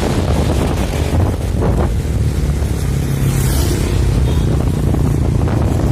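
Strong storm wind buffeting the microphone as a steady, loud low rumble, with surf from the sea beneath it.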